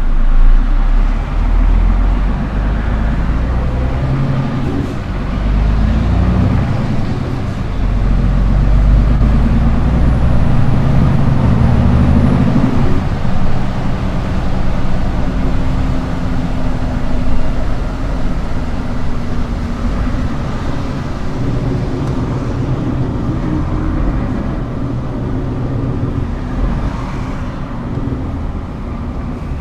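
Scania R410 truck's diesel engine running with a low rumble, its pitch rising and falling as the revs change.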